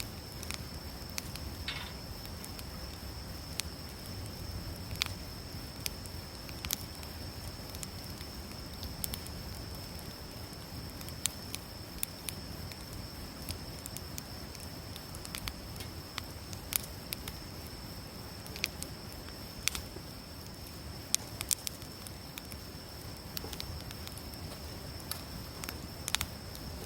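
Wood campfire crackling, with sharp pops and snaps at irregular intervals over a steady low rumble of burning.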